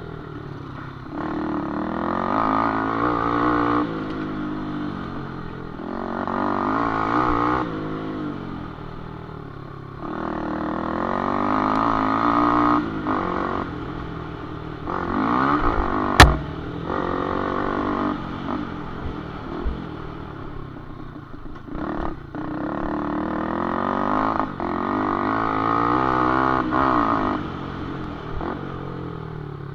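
Small cub-type motocross motorcycle engines revving up and dropping back again and again, in swells every four or five seconds. There is one sharp, loud knock about sixteen seconds in.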